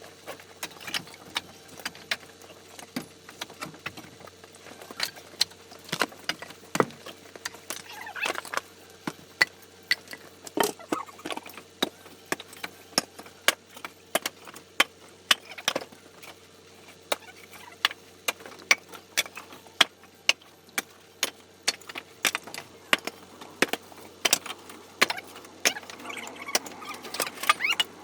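A run of irregular sharp knocks and clicks from hand work, several a second at times, over a faint steady hum.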